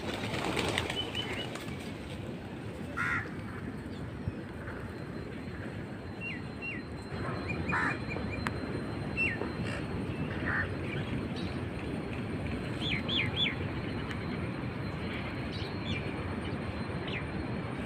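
Birds calling: short, scattered chirps and squawks, one a quick run of three notes, over a steady background hiss.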